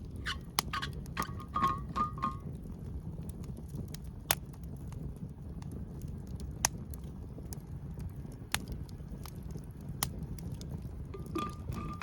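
Wood fire crackling, with sharp single pops every couple of seconds. In the first two seconds there is a quick run of knocks with a short ringing tone.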